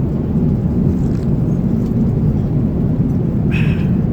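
Steady low rumble of an Airbus A350-900's cabin in cruise: engine and airflow noise. A brief higher-pitched sound rises above it about three and a half seconds in.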